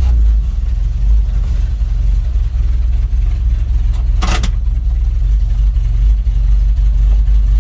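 Dodge D100 pickup's slant-six engine running steadily while driving, a deep low drone, with one short sharp noise about four and a half seconds in.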